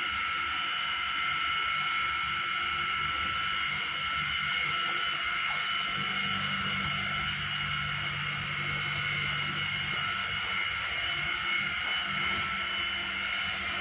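A machine running steadily, with a constant high whine over a low hum.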